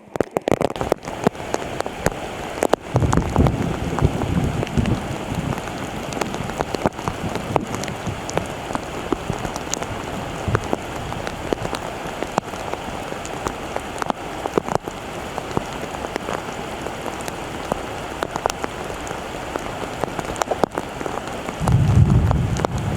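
Steady rain falling, a dense patter of drops. Two short stretches of low rumble, one about three seconds in and one near the end.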